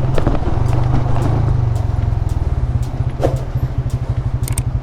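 Motorcycle engine running at low revs, with a steady, even low pulsing.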